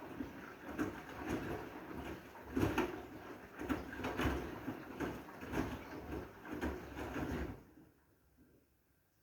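Washing machine drum turning a load of wet blankets, with irregular swishing and thumps. It stops abruptly about seven and a half seconds in.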